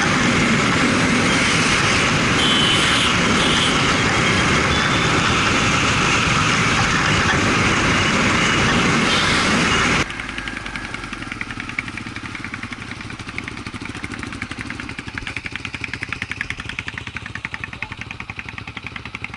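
Loud steady rushing noise for about ten seconds, then an abrupt cut to a motorcycle's single-cylinder engine running with a fast, even beat.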